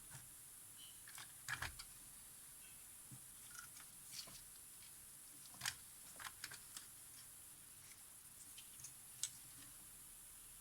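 Faint, irregular clicks and taps of small hand tools working on the parts of a Polaroid camera, in scattered clusters, with a sharp tick near the end.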